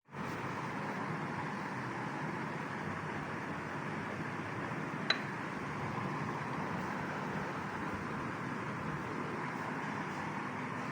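Steady background noise, with a single sharp click about halfway through.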